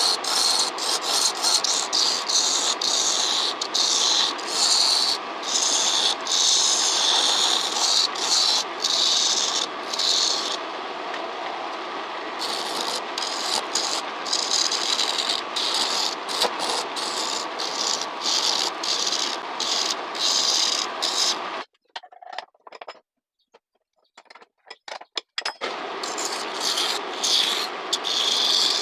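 Homemade wood lathe running while a turning gouge cuts into a spinning piece of green pruned wood: a continuous scraping and rasping, broken by many short gaps as the tool lifts off. About three quarters through the cutting stops for a few seconds, with only a few short noises, then starts again.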